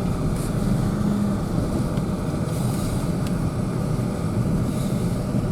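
Vehicle engine and tyres running steadily as it climbs a slippery hill, heard from inside the cab.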